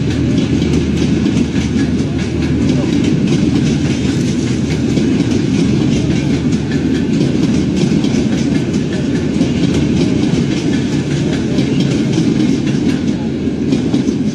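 Railway passenger coaches rolling along the track: a loud, steady rumble with the wheels clicking and clattering over the rail joints.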